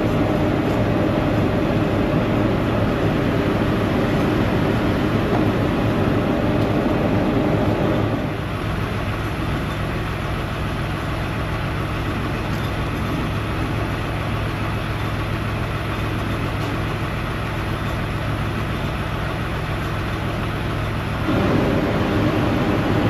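Heavy diesel truck engine idling with a steady low hum. A louder, rushing layer over it drops away about a third of the way in and comes back near the end.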